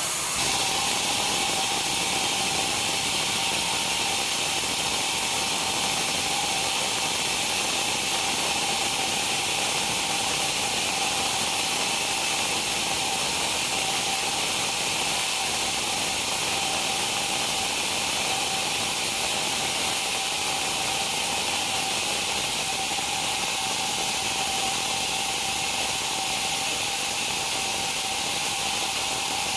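Sawmill machinery running steadily: a continuous hiss with a constant high-pitched tone, as of a saw in a long cut through a log.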